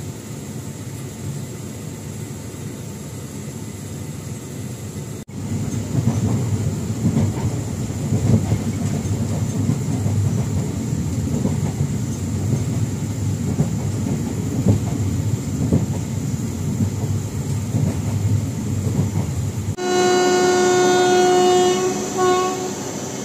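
A moving train's low rumble with irregular knocking from the wheels, louder from about five seconds in. Near the end a locomotive horn gives one steady blast of about two seconds.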